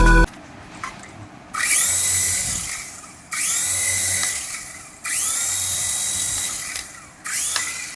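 Small electric motor of a remote-control toy whirring in four bursts, each spinning up quickly with a rising whine, then running and winding down.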